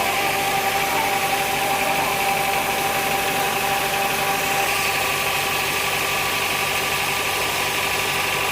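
Sawmill machinery running steadily at an even speed, with a constant mechanical hum and whine.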